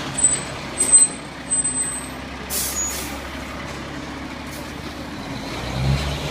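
Fire truck's diesel engine running with a steady low rumble, with thin high squeals in the first two seconds and a short hiss of air from the air brakes about two and a half seconds in.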